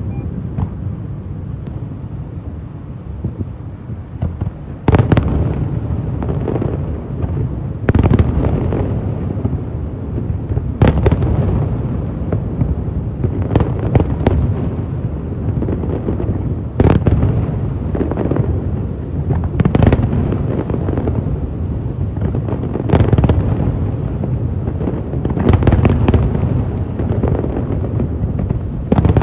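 Aerial fireworks display: loud shell bursts about every three seconds, sometimes two close together, with crackling and a steady low rumble between them.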